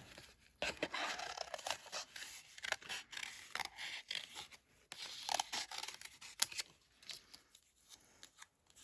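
Scissors fussy-cutting around a small butterfly motif in paper: a run of short, irregular snips.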